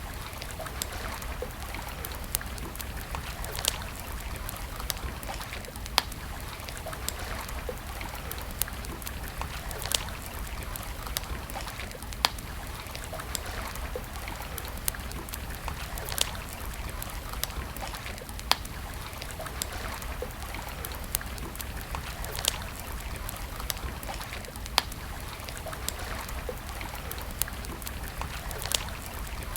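Wood fire crackling, with many small snaps and a louder sharp pop every few seconds, over the steady rush of flowing stream water.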